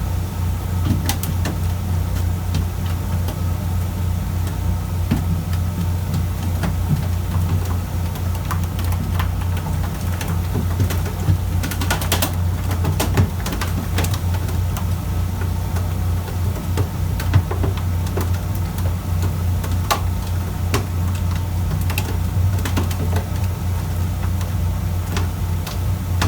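Fishing boat's engine running with a steady low drone, with scattered sharp clicks and knocks over it, a cluster of them about halfway through.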